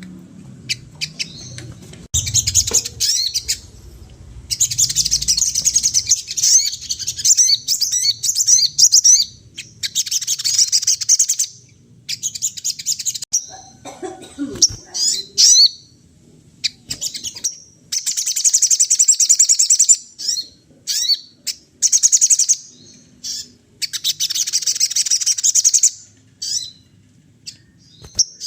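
Sogon songbird singing in loud bursts of rapid, high-pitched twittering, each lasting one to three seconds, with short chirps in between.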